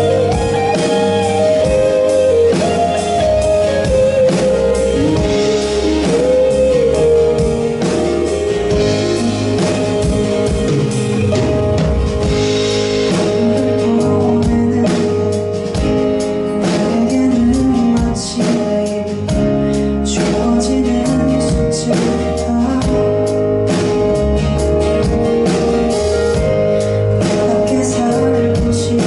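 Live band performance of a pop song: a singer's melody over guitar and drum kit.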